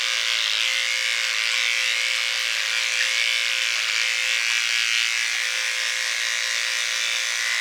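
Electric hair clippers running steadily through a dog's coat, a constant buzzing hum whose pitch dips slightly now and then.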